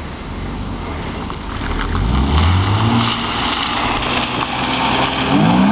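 BMW E36 M3's straight-six engine revving, its pitch climbing about two seconds in, holding, and climbing again near the end, over a steady hiss of tyres on a wet road.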